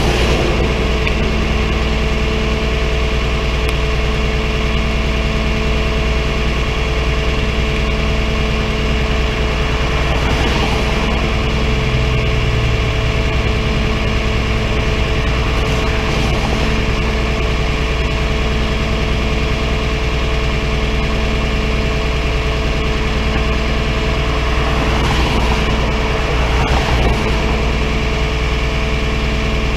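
Tow truck engine idling steadily, with a low tone pulsing on and off about every two seconds.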